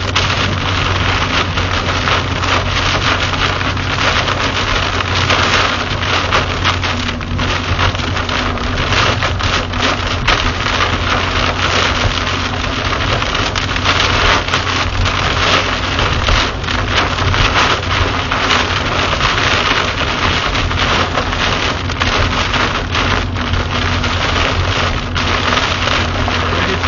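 Heavy rain pelting a car's roof and windshield, heard from inside the cabin as a loud, steady rush with a dense patter of drops, over the low, even hum of the car and its tyres on the flooded highway.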